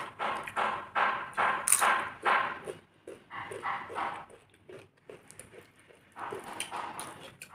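Close-up eating sounds: a quick run of chewing and mouth noises, about three a second, loudest in the first two and a half seconds, sparser in the middle and picking up again near the end, with a sharp crunch about two seconds in that fits crisp papad.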